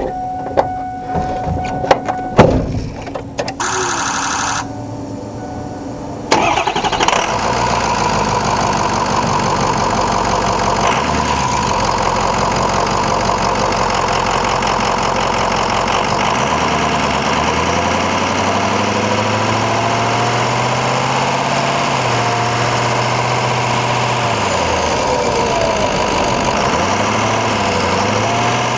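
Ford 6.0L Powerstroke V8 turbo diesel heard from under the hood: a few clicks and a short buzz, then about six seconds in the engine starts and settles into a steady run. In the second half its pitch rises and falls as the truck is driven.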